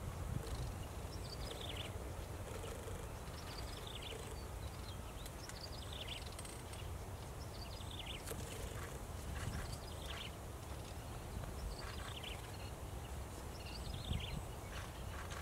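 A bird repeating a short, falling chirp every second or two, over a steady low rumble.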